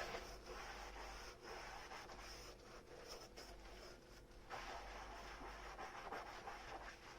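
Dishes being washed by hand, heard faintly: a soft, irregular scrubbing and rubbing, as of a sponge on crockery, with small clicks.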